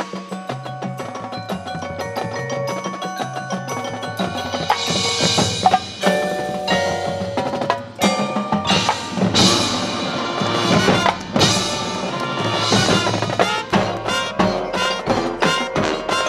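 High school marching band playing its competition field show, with the percussion to the fore: sharp drum and mallet-percussion hits over sustained band notes.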